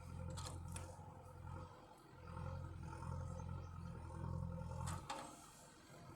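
Tractor engine running under heavy load with a deep drone that swells, eases off for a moment and swells again, then drops back near the end.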